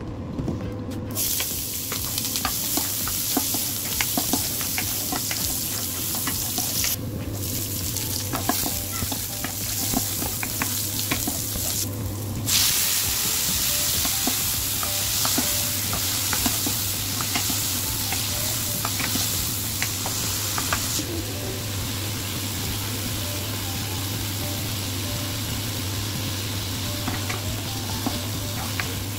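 Garlic, onion and chopped tomatoes sizzling in hot oil in a pan, with a spatula stirring and scraping against the pan in many small clicks.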